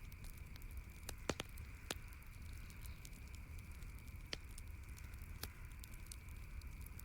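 Campfire crackling, with a scatter of small snaps and a few sharper pops, over a steady background hiss.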